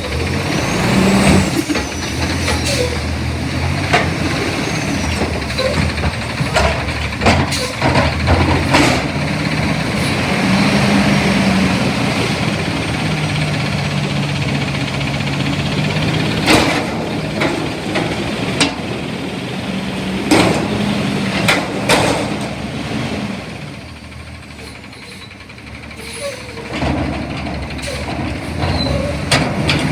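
CNG front-loader garbage truck running, its engine note rising and falling, with repeated sharp bangs and clanks throughout. It eases off briefly a little past two-thirds of the way through.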